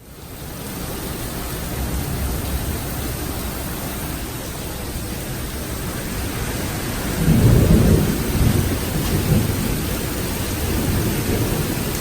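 Heavy rain pouring down steadily during a thunderstorm, with a roll of thunder rumbling in about seven seconds in.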